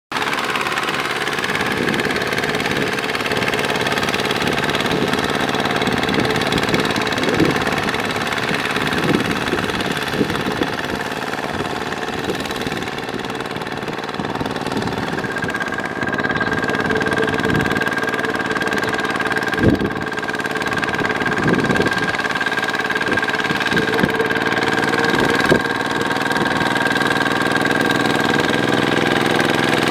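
Kubota ZT140 single-cylinder diesel engine of a walking tractor running steadily, with a few sharp clunks scattered through it. A steady high whine joins the engine sound about halfway through.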